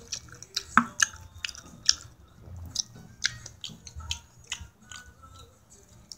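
Close-up chewing of a mouthful of food, with wet smacking and sharp mouth clicks coming irregularly a few times a second.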